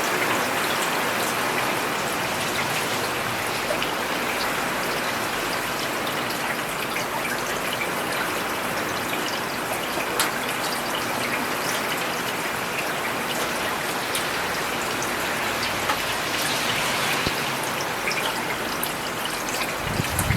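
Steady rain falling on a paved road, a dense even hiss with scattered sharp drop ticks and splashes.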